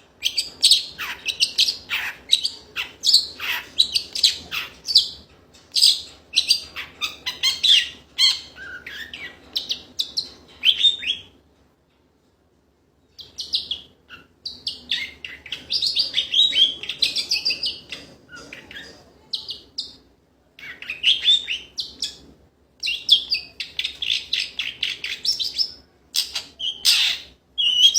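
A songbird singing in full voice: long runs of rapid, high chattering notes, broken by short pauses and one silence of about a second and a half near the middle.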